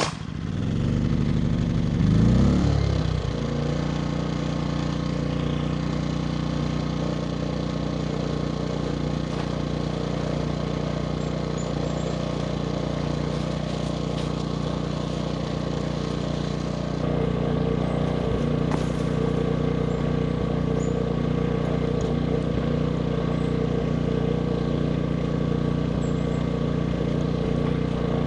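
Portable gas-powered generator starting up: the engine catches abruptly, its speed surges and wavers for the first few seconds, then it settles into a steady run.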